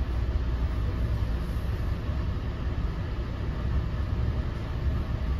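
Steady low rumble and hiss of an NJ Transit Multilevel passenger coach running at speed, heard from inside the coach.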